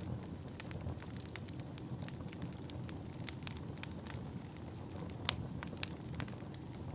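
Wood fire burning in a fireplace: a steady low rush of flames with irregular sharp crackles and pops from the burning logs, the loudest pop a little over five seconds in.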